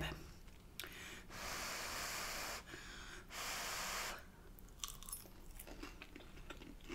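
Close-miked eating sounds: two long breathy rushes of air, then soft chewing of a bite of breaded chicken Kiev with small wet mouth clicks.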